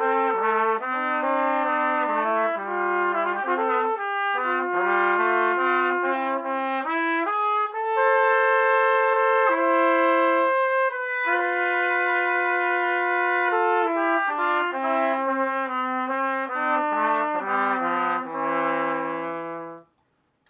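Two trumpets playing a slow duet in two parts, the lower part moving beneath the upper. It ends on a low held note in the bottom part that cuts off just before the end.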